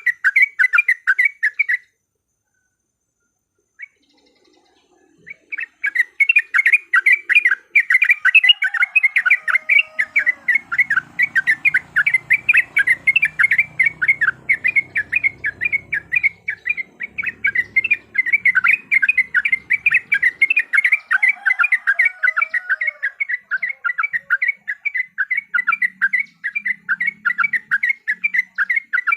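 Yellow-vented bulbuls giving rapid, repeated, chattering call notes in a dense, continuous run. The calling cuts out about two seconds in and starts again about three seconds later.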